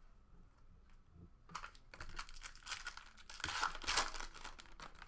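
Plastic trading-card pack wrapper being torn open and crinkled in the hands: a stretch of dense rustling that begins about a second and a half in and is loudest near the end.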